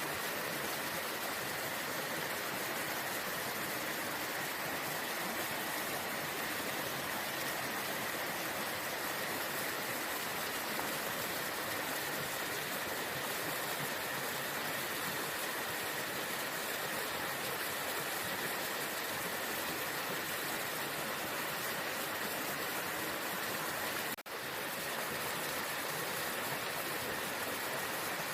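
Waterfall: a steady rush of falling water, with a momentary dropout near the end.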